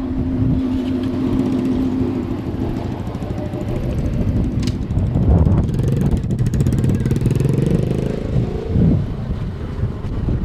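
Car engines running at close range, with one engine revving up, its pitch rising, about seven to nine seconds in.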